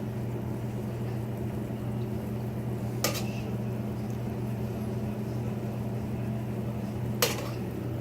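Two sharp clinks of a metal utensil against cookware, about four seconds apart, each with a short ring. A steady low hum runs underneath.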